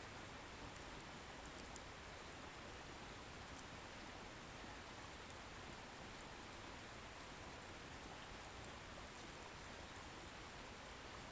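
Wood bonfire burning with a faint, steady hiss and a few tiny, sharp crackles from the firewood now and then.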